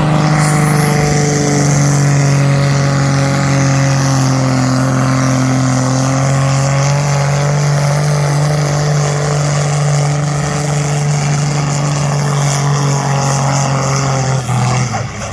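Pulling tractor's engine running hard at high revs under load as it drags the weight-transfer sledge, held at a steady pitch, with a high whine rising over the first second or two. The engine note drops away about a second before the end.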